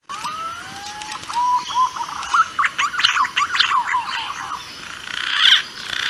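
Recorded calls of green pigeons (punai), played as a hunting lure: long whistled notes gliding around one pitch, then a quick run of short warbling, rising and falling notes.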